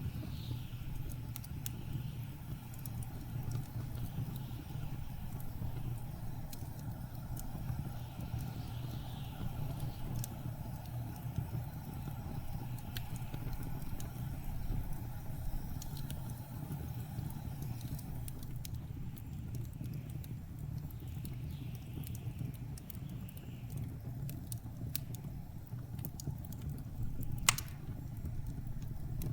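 Wood fire crackling in a fireplace, with scattered sharp pops and one louder pop near the end, over a steady low rumble and soft gusts of blizzard wind.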